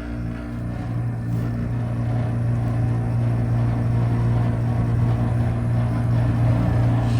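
2006 Carrier side-discharge air conditioner condensing unit running with a steady low hum, growing louder over the first couple of seconds, and rattling. The unit is malfunctioning, with its condenser fan cycling on and off, which the owner puts down to running in cold weather.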